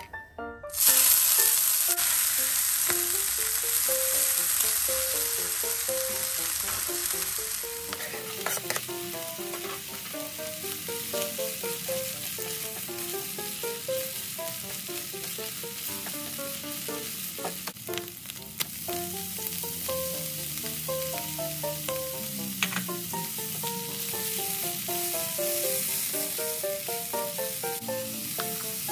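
Vegetables stir-frying in hot oil in a pan: a loud sizzle starts suddenly about a second in and eases somewhat after about eight seconds. A utensil knocks against the pan now and then.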